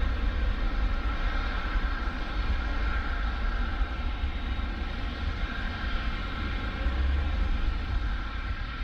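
Airbus A319-111 jet engines (CFM56) at takeoff power: a steady, loud rumble with a droning whine, beginning to fade near the end.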